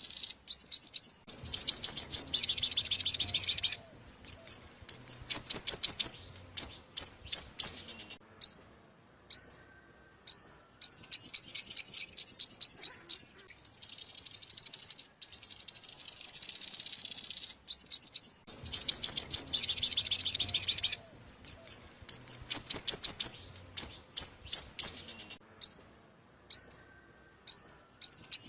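Sunbird song played as a trapping lure: bursts of rapid, high-pitched trills alternating with runs of single sharp chip notes and short pauses, the same phrase sequence repeating about every fifteen seconds like a looped recording.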